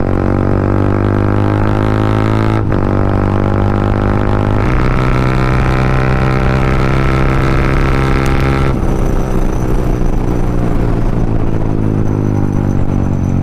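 Yamaha MT-15's single-cylinder engine through an aftermarket Akrapovic exhaust, running as a steady drone while riding. There is a brief dip about two and a half seconds in, like a gear change, and the tone shifts again about halfway through.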